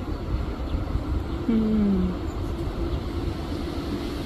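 Wind buffeting the microphone: a steady low rumble. A brief falling voice-like tone comes about a second and a half in.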